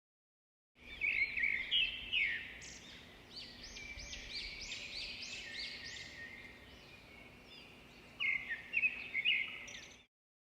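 Birdsong: a bird singing in quick chirping phrases, loudest about a second in and again near the end, with a run of evenly repeated rising-falling notes in between, over faint background noise and a low steady hum. It starts and cuts off abruptly, as a sound-effect recording.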